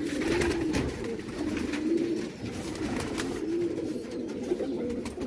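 Domestic pigeons cooing, with low, warbling coos overlapping one another without a break.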